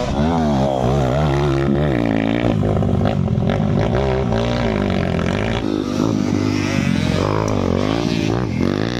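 Motocross dirt bike engines revving up and down repeatedly, the pitch rising and falling every second or so.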